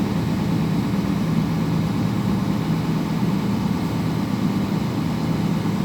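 Scania P410 truck's 13-litre inline-six diesel engine running steadily, held running during a forced particulate-filter regeneration.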